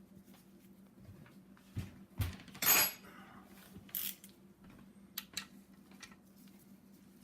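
Steel hand tools clinking and clicking as a socket wrench with an extension tightens connecting rod cap bolts to their first torque stage. There are several sharp clicks and a short rasp about two and a half seconds in, the loudest sound, over a faint steady hum.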